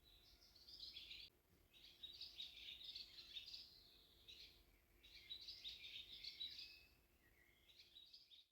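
A bird singing faintly: four phrases of quick, high notes with short pauses between them.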